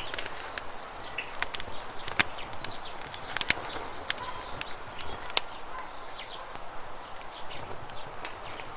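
Campfire crackling with sharp, irregular pops, the loudest about two and three and a half seconds in, over a steady rush of flowing water. Brief high bird chirps come and go.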